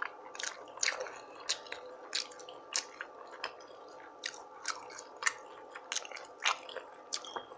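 A person chewing food close to the microphone: irregular sharp mouth clicks and smacks, about two a second.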